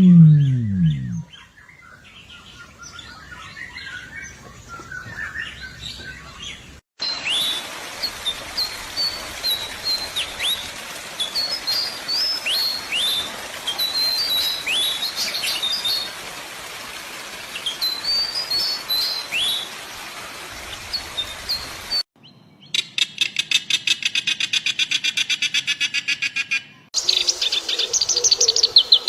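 Several different wild birds calling and singing in separate recordings joined by hard cuts. It opens with a brief low falling call, then a long run of sharp, downward-sweeping chirps, and then a fast, even trill.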